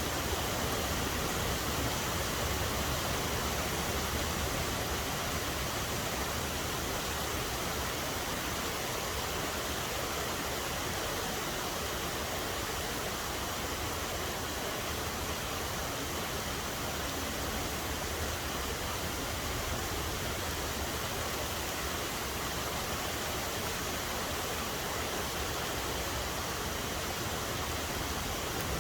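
Steady rain falling, an even hiss that stays at one level throughout.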